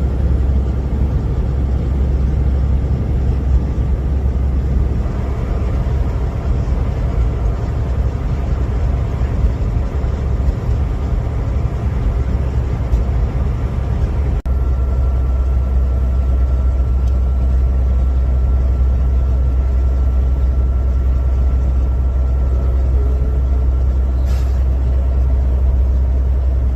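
Vehicle running, a loud steady low rumble of engine and road noise. About halfway it briefly drops out, and in the second half a faint steady high tone sounds over it until shortly before the end.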